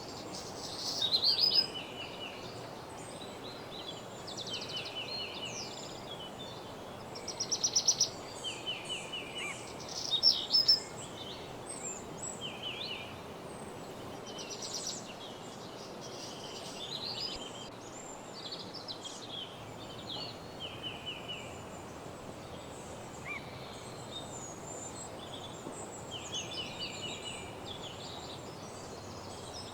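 Songbirds singing in woodland, several birds giving short, rapidly repeated trills and chirps over a steady background hiss. The loudest are quick high trills about a second in, near eight seconds and near eleven seconds.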